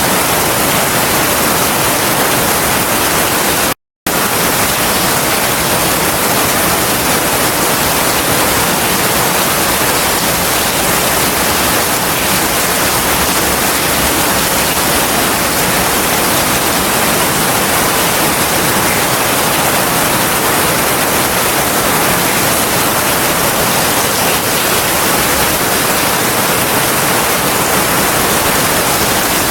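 Heavy rain falling as a steady, dense hiss, with no thunder. The sound cuts out completely for a split second about four seconds in, then resumes unchanged.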